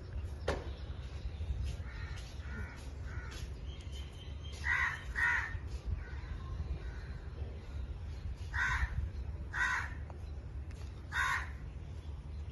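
Ringneck parrot calling in short, separate calls: a few faint ones, then louder ones, a quick pair about halfway and three more spaced about a second or so apart near the end. A steady low hum runs underneath.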